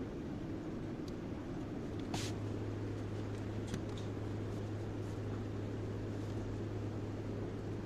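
Kobelco excavator's diesel engine running steadily with a low hum that grows a little stronger about two seconds in, marked by a single short clack at that moment and a few faint ticks.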